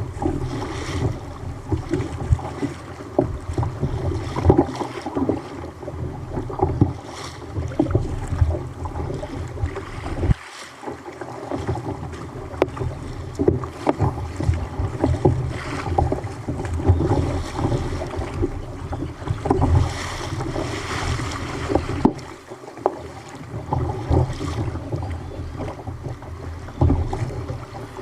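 Wind buffeting the microphone in a heavy low rumble, with irregular splashing and slapping of water around a fishing kayak on a rough sea. The wind drops out briefly twice, about ten and twenty-two seconds in.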